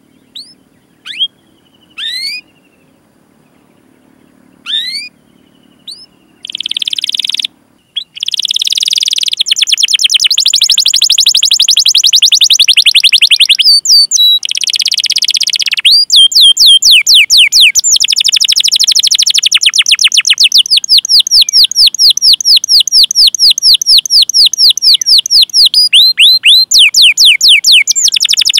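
Canary singing: a few separate short rising 'cuit' call notes, then from about six seconds in a loud continuous song of fast rolling trills and rapid rising chirps repeated several times a second.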